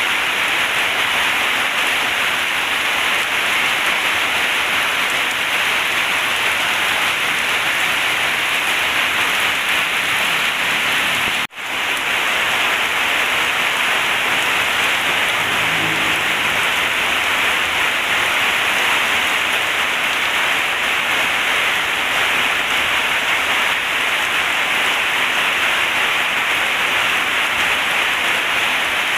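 Heavy rain pouring steadily on a corrugated zinc roof, a dense even hiss. The sound cuts out for a split second about eleven seconds in.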